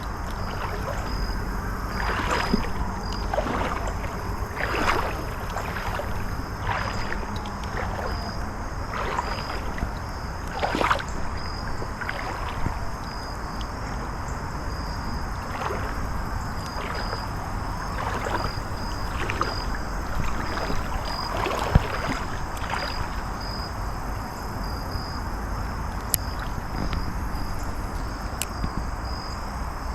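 Someone wading through a shallow river, with a slosh of water at each step every second or two. Steady insect chirring runs underneath.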